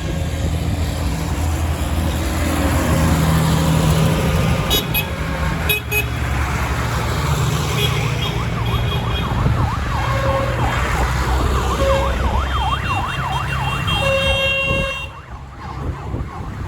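Diesel tractor engines running as they pass in a line. From about eight seconds in, a siren yelps rapidly up and down for several seconds among short horn toots, and the engine sound drops away near the end.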